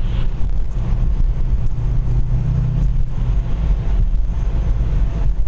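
Road noise inside a moving car's cabin: a steady low engine and tyre rumble, with the engine hum growing a little stronger for about two seconds midway.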